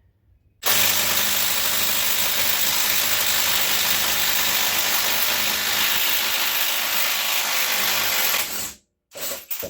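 Air impact wrench on the crankshaft balancer bolt. It runs in one long steady burst of about eight seconds, cuts off, then gives two short bursts.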